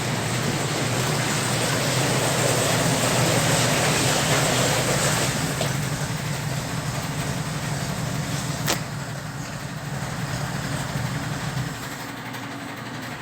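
Engine of a 1961 narrow-gauge Bombardier snow vehicle running steadily as it is driven slowly, swelling a little a few seconds in and easing off. A single sharp click comes at about nine seconds, and the engine sound drops near the end.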